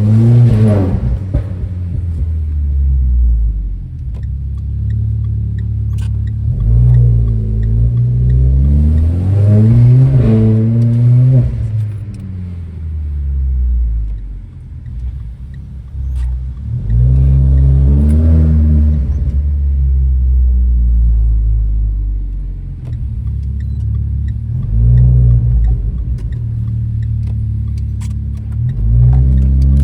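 Renault Clio RS engine and exhaust under hard acceleration: the revs climb and drop back several times at gear changes, with a steadier low engine drone between the pulls.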